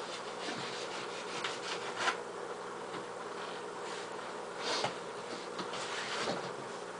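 Rubbing and scraping of a box being handled and opened, with louder scrapes about two seconds in, near five seconds and around six seconds. A steady low hum runs underneath.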